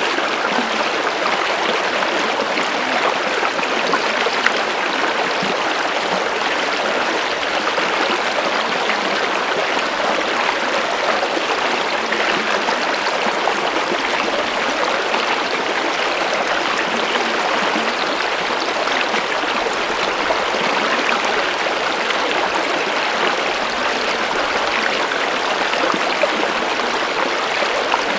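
Water of a stream running and splashing steadily over rocks.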